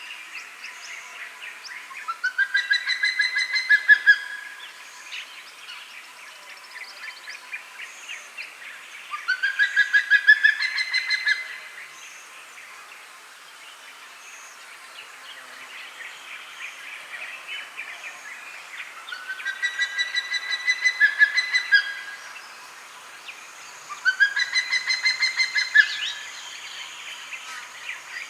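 An eagle calling four times, each call a run of rapid yelping notes that rises at the start, over a faint steady background of natural ambience.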